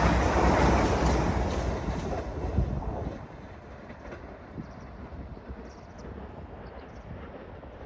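A train running past on the line, its rumble and wheel noise loud at first and dying away about three seconds in as it leaves. Afterwards, a quieter background with faint short high chirps.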